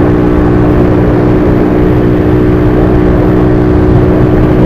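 Motorcycle engine running at a steady speed, its pitch holding level, under a heavy rush of wind noise on the microphone while riding.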